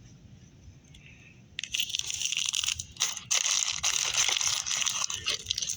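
Plastic packaging crinkling and crackling as it is handled. It starts about one and a half seconds in as a dense run of crackles and small clicks.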